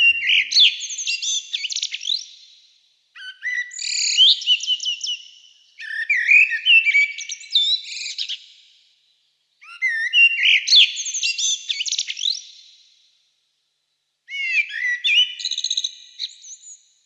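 Common blackbird singing: about five separate phrases of whistled, gliding notes, each two to three seconds long, with short pauses between them.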